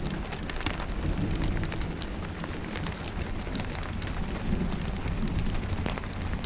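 Steady rain with scattered sharp fireplace crackles, over a low rumble of distant thunder that swells and fades.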